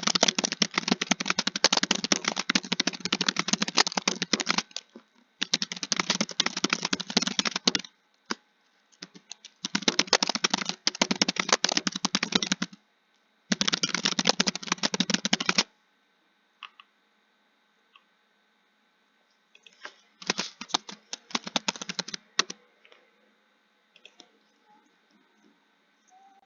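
Computer keyboard typing, fast runs of keystrokes a few seconds long with short pauses between. In the last third the typing thins to scattered single keystrokes, with one more brief run.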